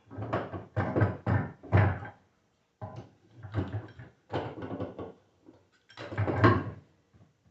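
A rebuilt car alternator being handled and set up on a bench: a string of irregular knocks and clunks, with short pauses about two and a half and five and a half seconds in.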